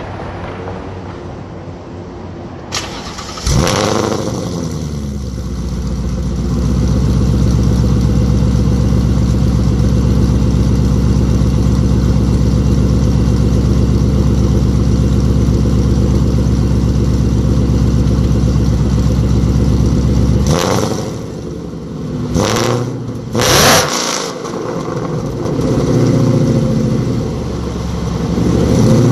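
Ford Mustang GT 5.0 V8 exhaust running through freshly fitted, quieter Borla S-Type mufflers: a jump in engine sound a few seconds in, a long steady idle, then a few quick revs near the end.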